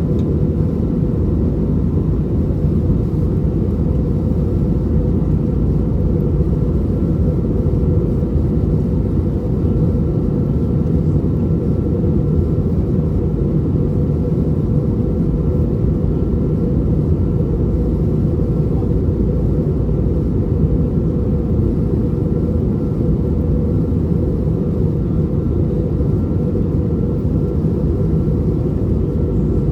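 Steady cabin noise inside an Airbus A320neo in flight: an even low rumble of airflow and its CFM LEAP-1A26 engines, with a faint steady high whine over it.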